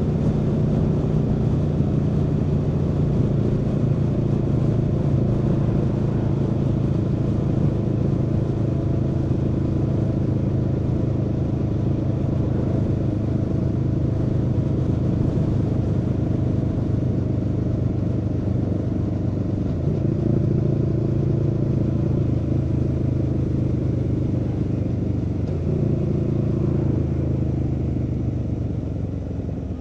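Aprilia Tuono V4's V4 engine running under way, its pitch slowly sinking, then jumping up sharply twice in the last third as gears are changed. It eases off near the end.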